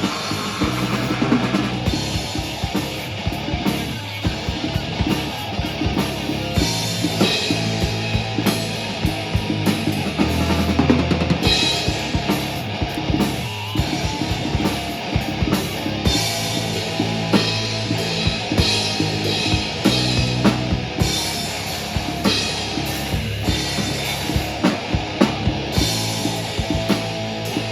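A rock band playing live with no vocals: drum kit with kick and snare keeping a steady beat under bass and guitars.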